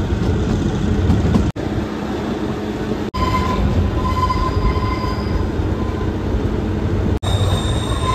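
Kalka–Shimla narrow-gauge toy train running, heard from inside a coach with the window open: a steady rumble of wheels on rail. From about three seconds in, a high steady wheel squeal comes in as the train rounds a curve, louder near the end. The sound is broken by three very brief gaps.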